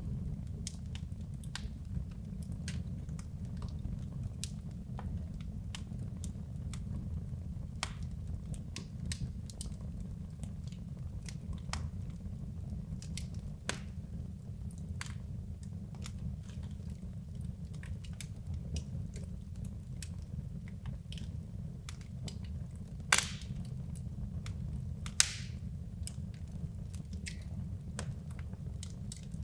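Wood logs burning in a fireplace: scattered crackles and small pops over a steady low rumble of the fire, with two louder pops about two seconds apart late on.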